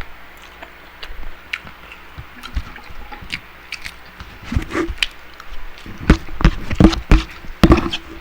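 Close-up mukbang eating sounds: wet chewing, lip smacks and slurps. They grow louder and come thicker in the second half, with a run of sharp smacks near the end.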